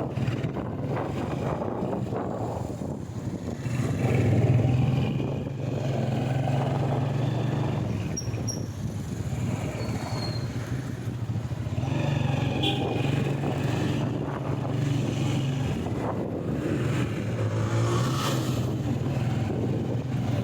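Motorcycle engine running, a steady low hum that swells louder a few times.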